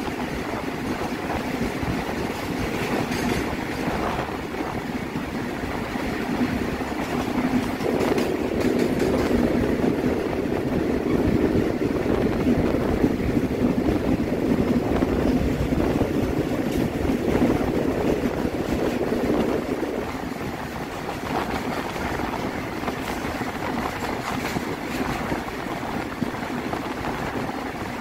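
Steady running noise of electric goods trains moving side by side on parallel tracks, wheels rumbling on the rails. It swells for a stretch in the middle, from about eight seconds in to about twenty seconds in, then eases back.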